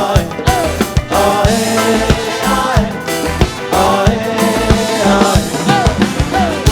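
Live pop band music with a steady drum beat and a melodic lead line.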